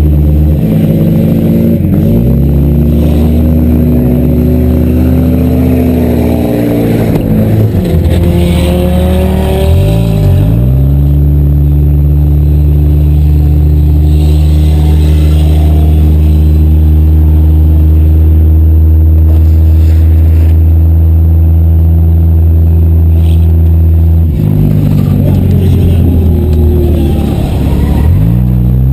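Demolition derby car engines running loud, their pitch dropping and climbing again a few times, with a long steady stretch in between.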